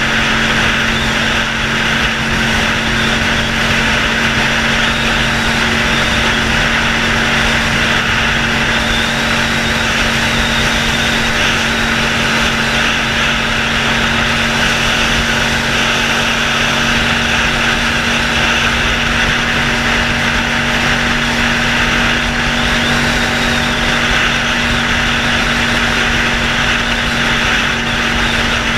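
Honda VFR 750F's V4 engine, running without a muffler, holding a steady note as the motorcycle rides at an even, moderate speed, with a steady hiss over it.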